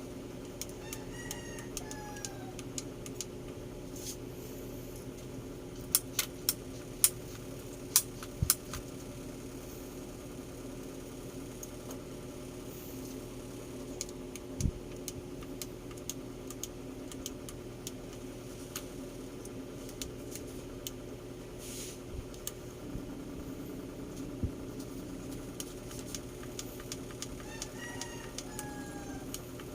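A steady low machine hum, with a cluster of sharp clicks about six to eight and a half seconds in and a few scattered clicks elsewhere.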